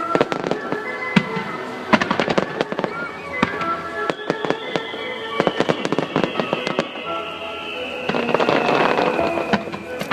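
Firework shells bursting rapidly one after another in a music starmine, with crackling that thickens near the end, over the accompanying music. A long tone slowly falls in pitch through the second half.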